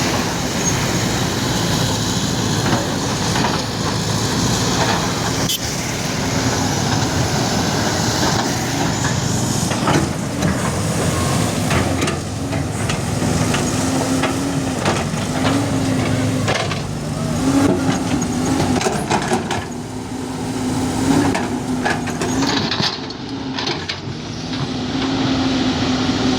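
Bulldozer's diesel engine running under changing load, its pitch dipping and rising several times, with scattered knocks and clanks.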